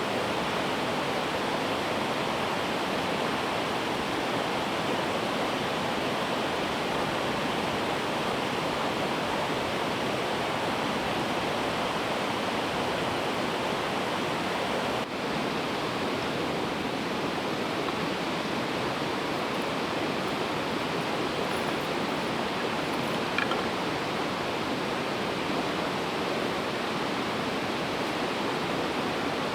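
A river rushing steadily over its bed, an unbroken water noise with a brief break midway and a small click near the end.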